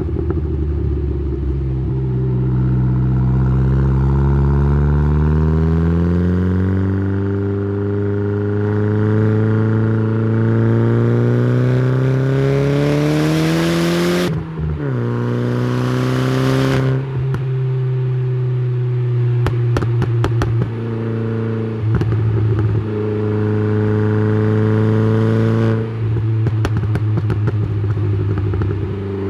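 Saab 9-3's turbocharged B204 2.0-litre four-cylinder heard through the exhaust, pulling hard with the revs climbing steadily for about twelve seconds. The revs then drop suddenly with a rush of hiss, the engine holds a steadier note, climbs again briefly and drops once more near the end, with scattered clicks.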